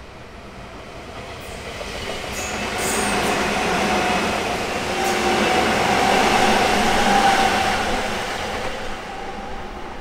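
Semboku Rapid Railway electric commuter train passing close by: wheels rumbling on the rails with a steady whine. It swells about two seconds in, is loudest in the middle and fades near the end.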